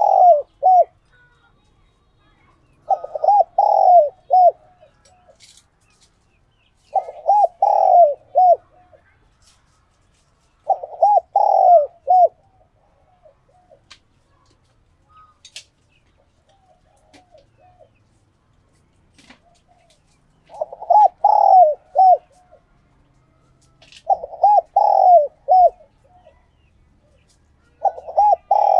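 Spotted dove cooing in repeated short phrases of a few coos each, about one phrase every four seconds. Midway there is a longer pause in which only fainter coos are heard.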